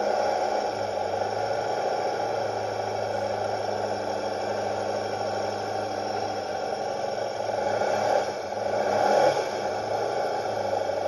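1972 Triumph T100R Daytona's 500 cc parallel-twin engine idling steadily while warming up just after a cold start, with some mechanical rattle. The note swells briefly twice about eight seconds in.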